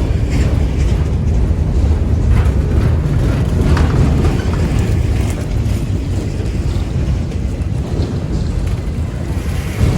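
BNSF freight train of autorack cars rolling past: a steady low rumble of wheels on the rails, with faint clicks over it.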